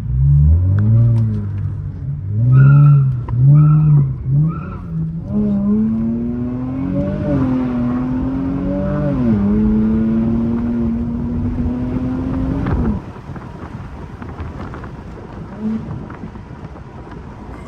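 Infiniti Q50's twin-turbo V6 with its muffler deleted, run hard: several quick revs rise and fall in the first few seconds, then the engine holds at high revs for about eight seconds before the throttle is cut suddenly, and it runs on much quieter.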